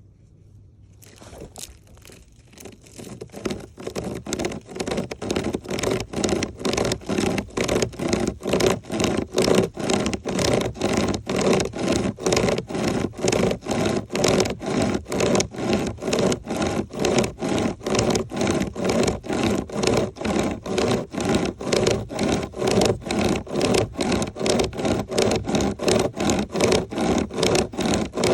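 A 36-inch pocket chainsaw, a chain of cutting teeth pulled back and forth by hand loops, sawing through a dead oak log, rasping in a steady rhythm of about two to three strokes a second. It starts about a second in and grows louder over the first few seconds.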